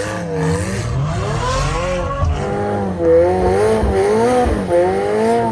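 Ferrari F12's V12 engine revving, its pitch swinging up and down over and over as the throttle is worked on and off.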